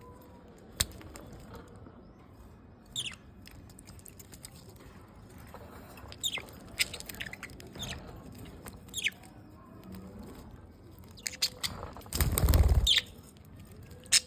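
Budgerigars giving short, sharp, downward-sweeping chirps scattered throughout, with a few sharp clicks. Near the end comes a loud noisy burst, a little under a second long.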